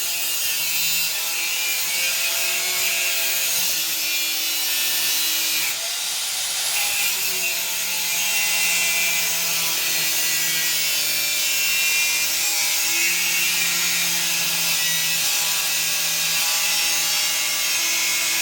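Angle grinder cutting steel, a steady high-pitched grinding with a short dip about six seconds in.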